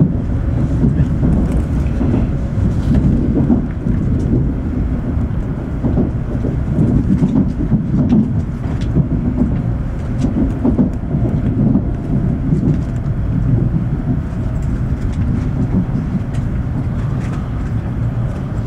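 Cabin running noise of an N700S Shinkansen train as it slows into the station: a steady low rumble from the wheels and track, with a few sharp clicks as the wheels cross the points.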